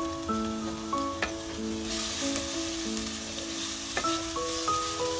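Onions and ginger-garlic paste sizzling as they fry in oil in an aluminium pot, stirred with a wooden spatula that scrapes the pot a couple of times. A soft background music melody plays underneath.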